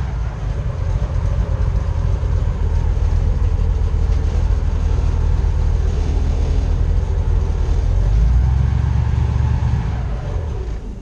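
Airboat's engine and large air propeller running at speed, a loud steady low drone, easing off near the end as the boat throttles down.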